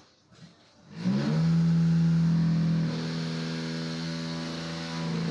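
Concrete block production machinery running with a loud, steady mechanical drone that starts abruptly about a second in and holds an even pitch, easing slightly in level about halfway through.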